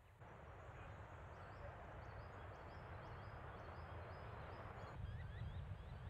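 A small bird calling a quick series of short, high chirps. Under it is a steady low rumble of wind on the microphone, and a rushing hiss that cuts off suddenly about five seconds in.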